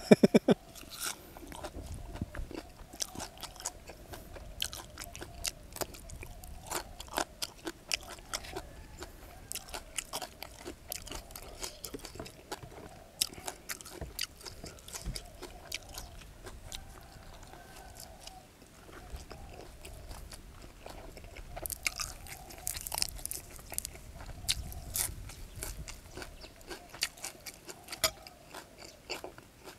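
A person chewing and crunching food close to the microphone: a mouthful of shrimp larb eaten with fresh leaves. It comes as a steady run of small crisp crunches, busier and louder for a few seconds about three-quarters of the way through.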